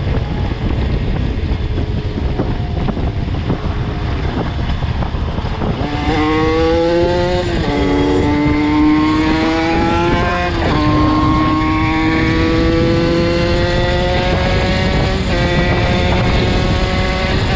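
A 50cc two-stroke supermoto engine, heard from the rider's seat with wind rushing past, accelerating hard through the gears: from about six seconds in its high-pitched note climbs, drops sharply at each of three upshifts and climbs again.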